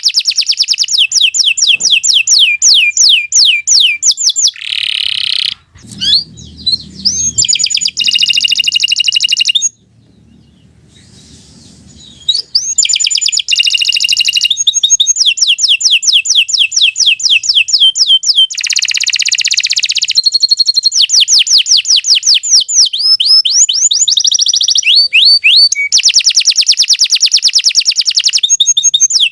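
Domestic canary singing a long, loud song of rapid trills: fast series of repeated sweeping notes, changing from one trill type to the next. It breaks off briefly about ten seconds in and starts again about two seconds later.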